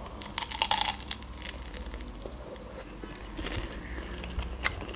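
Close-up biting and chewing of a crisp-crusted, berry-filled fried pie: sharp crunches of the crust in the first second, quieter chewing, then more crackling crunches near the end.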